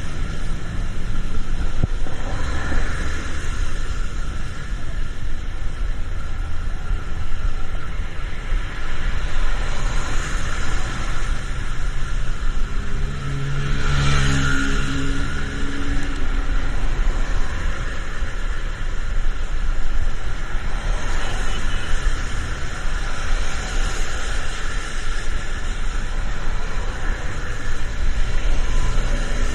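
Road traffic going by, a steady rush of tyres and engines with a low rumble. Near the middle a heavier vehicle passes close, its engine louder for a couple of seconds.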